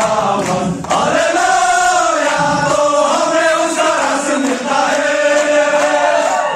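Song with a group of voices singing, over light percussion.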